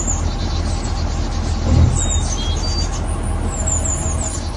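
Birds chirping in quick runs of short, high, falling notes over a steady low rumble, with a muffled bump about two seconds in.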